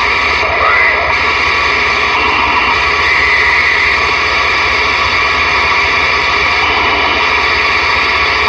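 CB radio receiver's speaker giving out a steady loud static hiss on AM channel 23 with the squelch open, band noise from a skip opening, with faint steady tones running through it.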